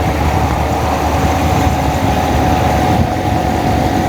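Wind noise on the microphone of a moving motorcycle, over the steady running of a Honda Monkey's small single-cylinder engine, with a steady hum throughout.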